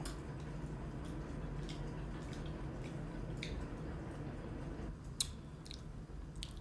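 Close-miked chewing of roast pork with rice and beans: wet squishing mouth sounds and scattered sharp lip-smack clicks, the loudest about five seconds in. A low background rumble drops away just before that click.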